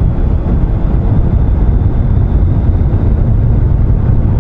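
Triumph Street Triple motorcycle being ridden at road speed, its engine and road noise heard under heavy wind rush on the helmet-camera microphone. The sound is steady throughout, deep rumble strongest, with a faint thin whine high above it.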